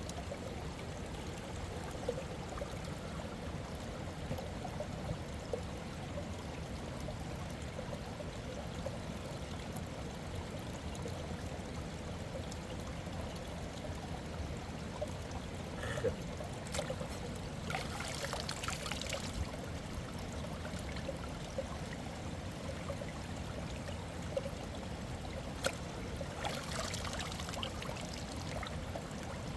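Mountain river water running steadily, with a brief louder high hiss twice, about two-thirds in and near the end.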